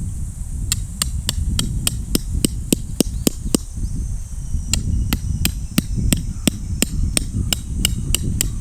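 Quick, even hammer blows on a metal tent stake, about three to four a second, each with a short metallic ring. They come in two runs with a pause of about a second between them, over a low steady rumble.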